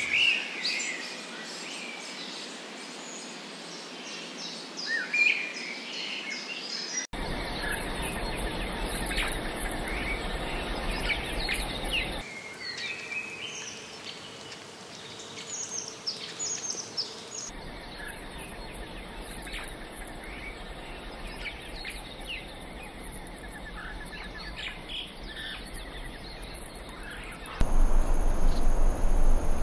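Forest ambience of scattered bird chirps and short descending call runs over a steady background hiss. The background switches abruptly several times, and near the end it becomes much louder and denser.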